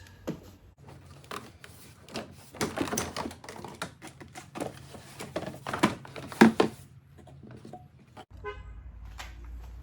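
Hard plastic engine air-intake housing parts clicking and knocking together as the assembly is lifted out, with a loud knock about six seconds in and a short quick rattle near the end.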